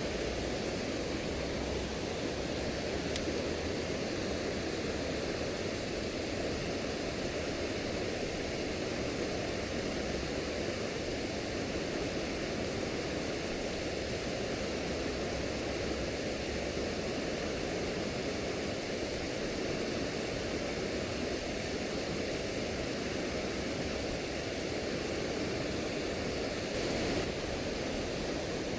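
Steady, unbroken rush of flowing river water, likely from a waterfall.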